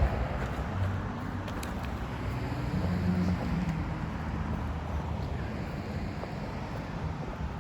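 A motor vehicle's engine running nearby, with wind noise on the microphone.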